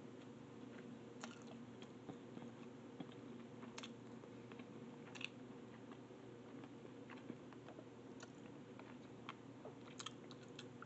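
Faint chewing of ramen noodles, with scattered small clicks of a metal fork against a plastic container, over a steady low hum.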